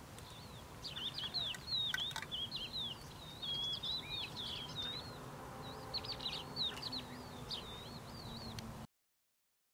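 Songbird singing a fast, varied song of short notes that bend up and down, over faint outdoor background noise. The sound cuts off suddenly shortly before the end.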